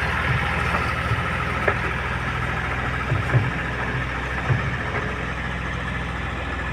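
Heavy diesel engine idling steadily, with a few short low thumps.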